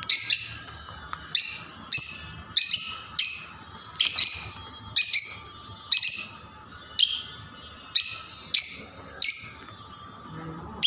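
Lovebirds giving short, high-pitched chirping calls over and over, about one and a half calls a second, each sharp at the start and trailing off quickly.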